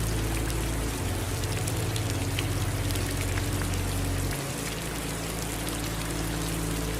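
Steady rain falling, with single drops ticking through the hiss, over a low steady rumble that changes about a second in and again past the middle.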